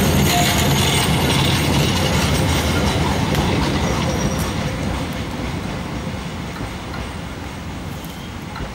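Narrow-gauge train hauled by an Lxd2 diesel locomotive moving off, its coaches rumbling and rattling over the rails as they pass, then fading steadily as the train draws away.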